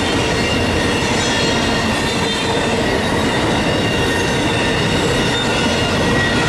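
Freight intermodal train of double-stack and trailer cars rolling steadily past, a dense continuous rumble of wheels on rail with faint steady squealing tones from the wheels. Wind buffets the microphone.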